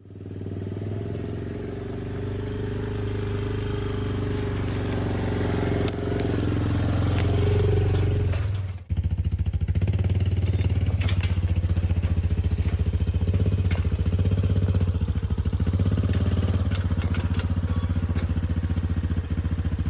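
Small petrol engine running steadily, cutting out briefly about nine seconds in, then running on with a rapid, even pulse.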